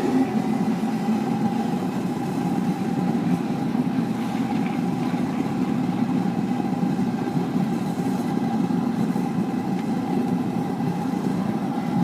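Forced-air propane burner firing into an aluminum-melting furnace: a steady rush of flame and blower with a constant hum, its level unchanging throughout.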